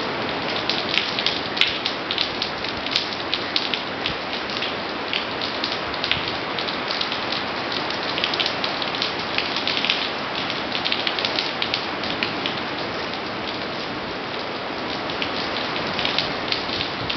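Heavy hurricane rain pouring onto pavement: a steady hiss crowded with close, splattering drops.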